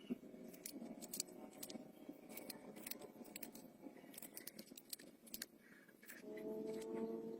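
Faint, irregular light clicks and clinks of small metal objects. A steady hum of several tones comes in about six seconds in.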